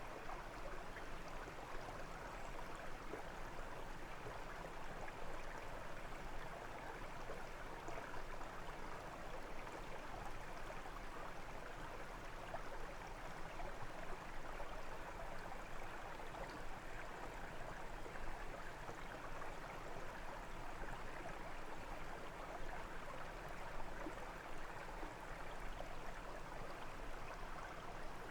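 A brook's water running and splashing over stones, a steady babbling rush with small flickering variations and no breaks.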